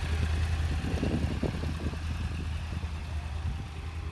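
Yamaha R1 sport bike's 998 cc inline-four engine running steadily at idle, still cold from its cold start; it grows fainter near the end.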